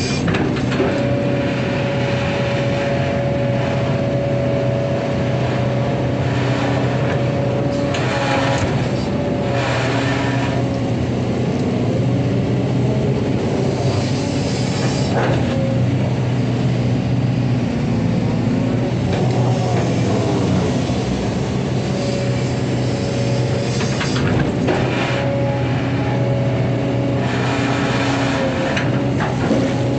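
Excavator's diesel engine running steadily under work, with a steady high whine over it and occasional louder, noisier spells.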